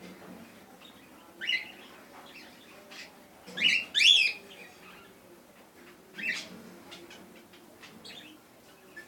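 Cockatiels calling in short, separate chirps every couple of seconds, the loudest a pair of calls about halfway through.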